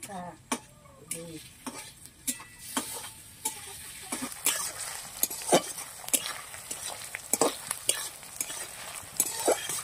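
Sliced onions and green and dried red chillies frying in oil in a steel pan, sizzling while a metal spatula stirs and scrapes them with frequent sharp clinks against the pan. The sizzle grows louder after a couple of seconds.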